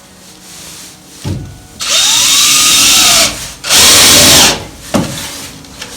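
Power drill driving screws into a wooden board: two runs of the motor, the second shorter, with a knock on the wood just before and just after.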